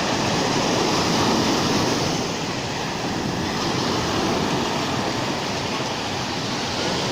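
Rough sea surf: waves breaking and washing in a continuous rush, a little louder about a second in.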